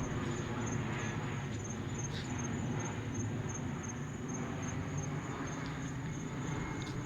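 Steady low rumble of an airplane passing at a distance, with crickets chirping in a high, evenly pulsing trill, about three pulses a second.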